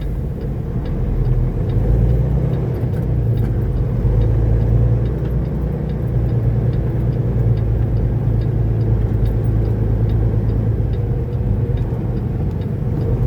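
Semi truck's diesel engine running at low speed, a steady low rumble, with faint regular ticking over it.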